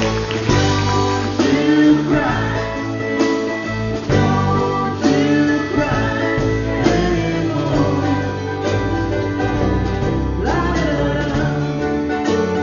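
Live acoustic band music: plucked guitar with a sung or bowed melody over it.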